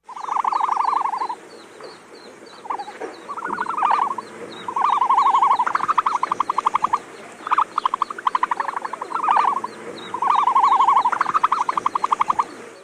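Several animals calling in rapid pulsed trills, overlapping in bouts about a second long, with a faint regular ticking above them.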